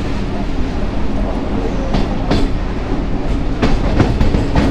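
Suburban electric local train running, heard from inside the coach by the open door: a steady rumble, with wheels clacking over rail joints several times in the second half.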